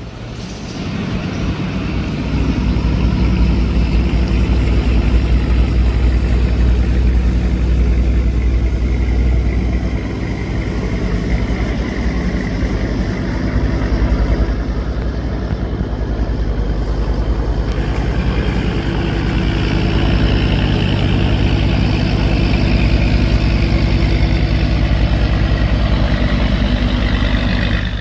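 A boat's engine running steadily under way. It builds up over the first couple of seconds, with a deep, even drone.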